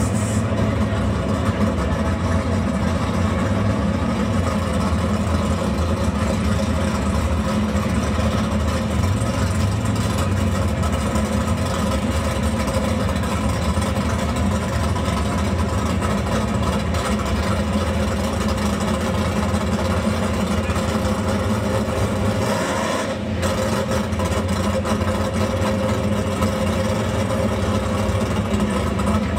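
Car engine idling steadily, with a deep, even note, dipping briefly about three-quarters of the way through.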